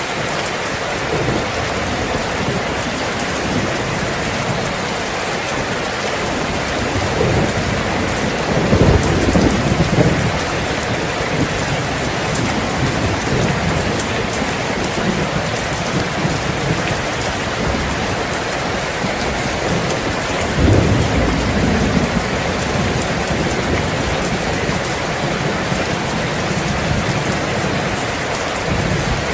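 Steady heavy rain falling, with thunder rumbling twice: a longer roll about a third of the way in and a shorter one past the middle.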